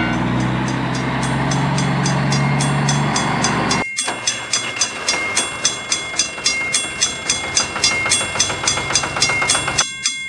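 Train sound effects: a train passing with rhythmic wheel clatter. A low horn-like tone sounds for the first three seconds. After a sudden cut about four seconds in, the clatter repeats about three or four times a second under a steady high ringing tone.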